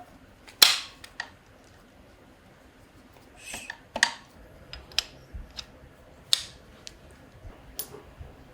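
A string of sharp, irregular clicks and knocks from tools and parts being handled at a workbench. The loudest comes about half a second in, with smaller ones near four, five and six seconds.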